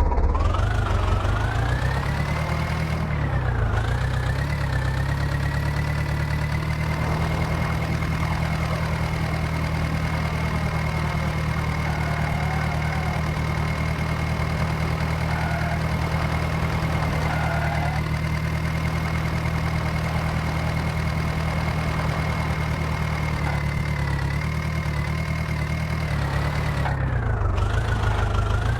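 Heavy diesel engine revved up and held at high revs under load, with a steady high whine that rises and falls with the engine speed. The revs dip briefly about three seconds in and sag again near the end.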